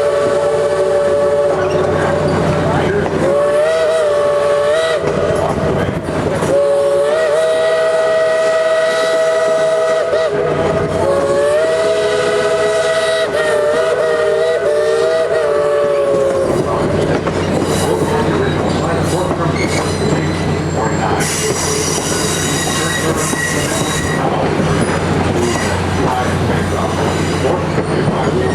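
Steam locomotive #734's B&O three-chime whistle blowing four blasts, the second one shorter, then falling silent about two-thirds of the way through. The train keeps running with a steady rumble and rail clatter underneath and after the whistle.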